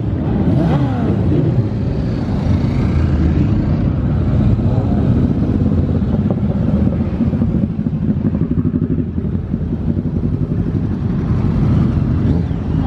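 Motorcycle engine running under way, steady throughout, with a short falling engine note just after the start.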